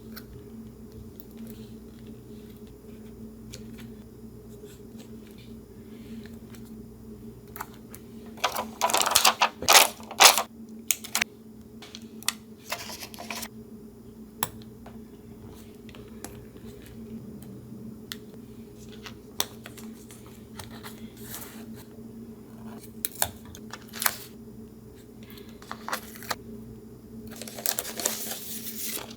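Paper collage crafting: scattered small taps and clicks of paper and tools on a desk, with a louder stretch of paper rustling and crinkling about nine seconds in and again near the end, over a low steady hum.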